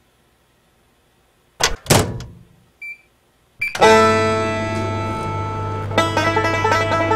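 Two quick thunks, typical of a microwave oven door being shut, then a single short electronic keypad beep; a little past halfway, bluegrass-style banjo music starts and carries on.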